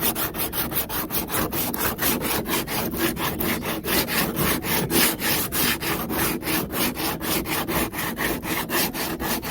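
Sandpaper worked by hand in quick back-and-forth strokes, about four to five a second, over a plastic weld patch on a kayak hull, smoothing the patch down.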